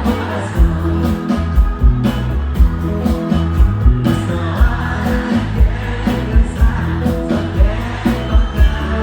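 Live band playing a romantic Brazilian pop song, with a steady drum beat of about two hits a second under guitar and keyboard lines, between the singer's vocal lines.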